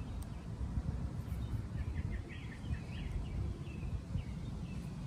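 Outdoor background: a steady low rumble, with a small bird chirping a quick run of short notes about two seconds in.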